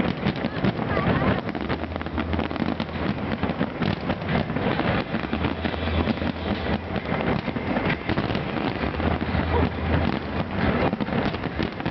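Fireworks display: a dense, continuous barrage of crackling and popping shells with heavier bangs mixed in, under a low throb that swells and fades every couple of seconds.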